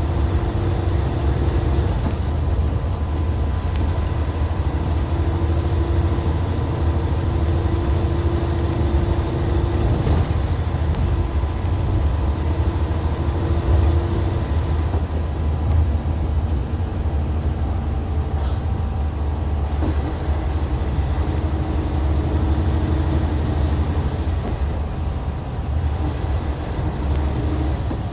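Hyundai Universe coach's D6CC Powertec 380 inline-six diesel running under way, a steady low drone mixed with road noise. The engine note shifts in pitch a few times as the revs change.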